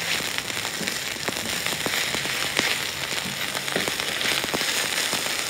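Cubes of chicken frying in hot coconut oil in a pan over high heat: a steady sizzle with many sharp crackles and pops, while a spatula turns the pieces.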